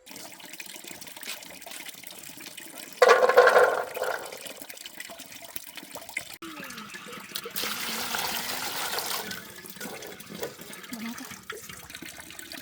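Water running and splashing, with a short louder gush about three seconds in and a longer stretch of heavier pouring from about six and a half to nine seconds.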